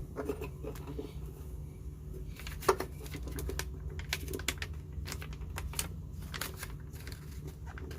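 Inside the cab of a Mazda B2200 pickup: a steady low drone from the engine and drivetrain, with frequent light clicks and rattles over it.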